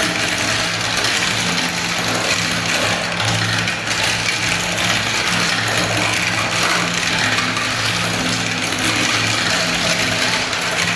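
Many marbles rolling and clattering down a plastic spiral-ramp marble run: a continuous, dense rattling rumble with no pauses.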